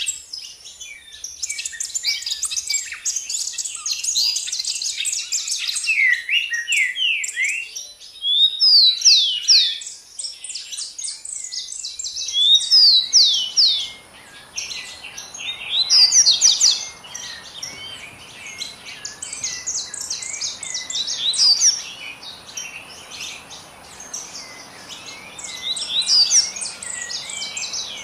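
Many small birds chirping and singing at once, a dense chorus of quick, high twittering notes and short down-slurred calls, with louder bursts near 9, 13 and 16 seconds in. A faint steady high hiss runs beneath, and a soft background rush comes in about twelve seconds in.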